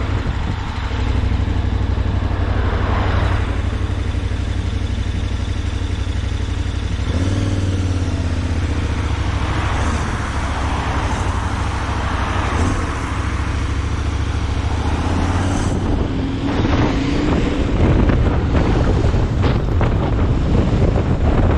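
Vehicle running along the road: a steady engine hum under road noise, with wind buffeting the microphone, gustier in the last few seconds.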